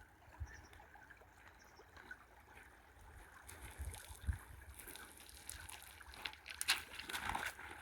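Faint river water trickling and splashing, with crackling little splashes that come thicker in the second half.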